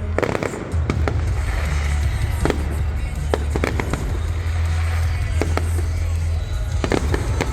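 Fireworks going off: a dozen or so sharp bangs and cracks at irregular intervals, over a steady low hum.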